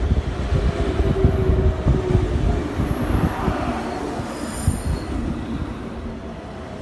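An electric commuter train running past along the platform: a heavy rumble of wheels and running gear, with wheels squealing briefly on the rails. It grows quieter toward the end as the last cars go by.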